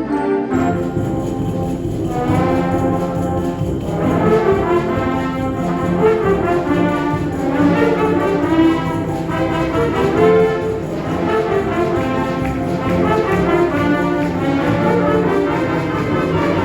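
Concert wind band playing loudly and continuously, with brass prominent.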